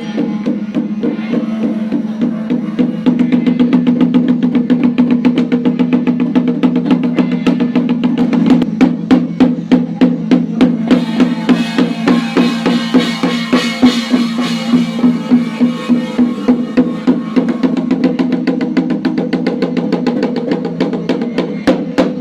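Chinese temple ceremonial percussion: fast, continuous drumming over a steady low ringing tone. From about eight seconds in, the strikes stand out louder at about three to four a second.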